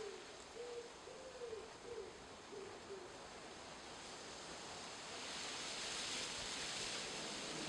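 A pigeon cooing: a phrase of low, soft notes that ends about three seconds in. From about five seconds in, a steady, louder hiss rises and covers everything.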